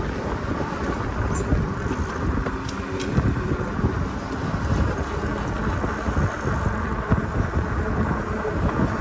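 Wind buffeting the microphone of a camera on a moving bicycle: a steady, uneven low rumble of noise.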